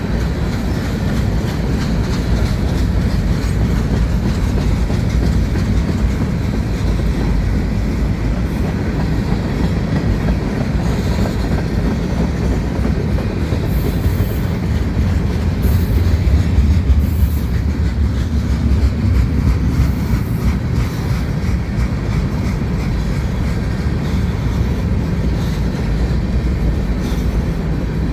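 Freight train cars rolling past, a steady heavy rumble with wheels clattering over the rail joints. A few brief high-pitched squeals come about halfway through.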